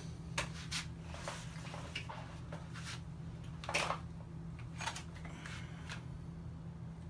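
Scattered clicks, taps and short rubbing noises at irregular moments, as of something being handled, over a steady low hum. No engine is running.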